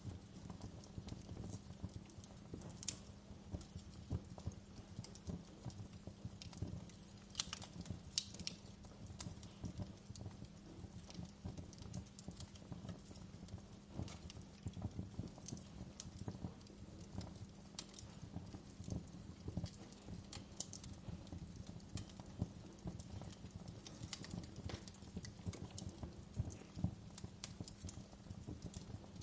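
Wood fire crackling: a dense, irregular patter of soft pops with occasional sharp, bright snaps.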